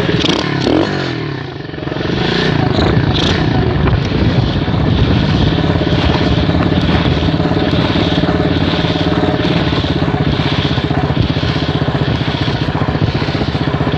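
M2R KX110F pit bike's four-stroke engine running steadily. Its pitch and level dip briefly about a second in, then hold steady.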